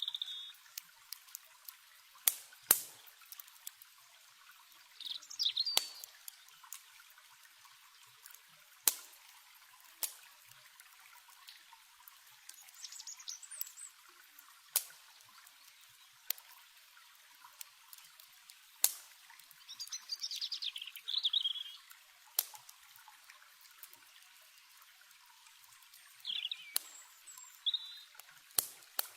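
Campfire crackling with scattered sharp pops over the steady sound of a running river, while small birds chirp in short phrases several times.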